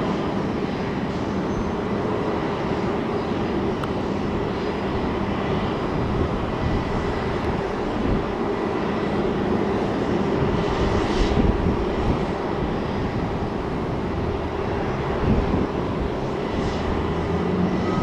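Jet airliner engines running, a steady rumble with a faint high whine.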